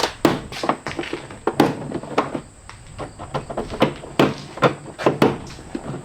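A dozen or so irregular knocks and clicks, sharp and uneven in spacing, with no steady engine sound.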